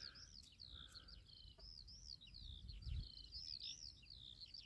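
Faint bird song: a continuous run of quick rising-and-falling chirps, over a low rumble of light wind on the microphone.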